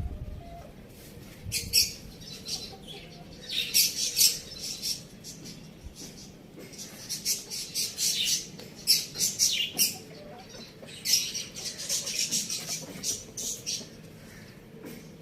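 Small birds chirping in rapid bursts of short, high calls with brief gaps between the bursts.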